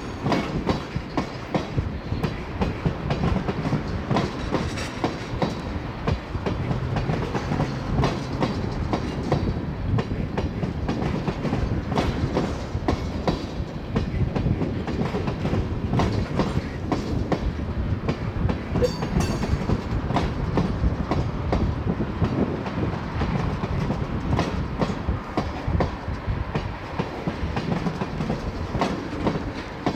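A long freight train of oil tank cars rolling steadily past, a continuous rumble broken by irregular clicking and clacking as the wheels cross rail joints.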